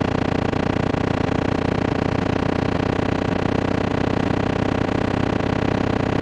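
Synthetic speaker-cleaning water-eject signal: a loud, steady mix of low hum tones over fast-flickering noise, meant to vibrate water out of a phone speaker.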